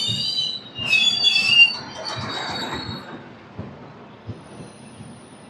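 Train wheels squealing on the rails as the superfast express moves off from a station stop: several high-pitched overlapping squeals that break off briefly, swell to their loudest about a second and a half in, and die away by about three seconds. After that comes quieter running noise with a couple of knocks.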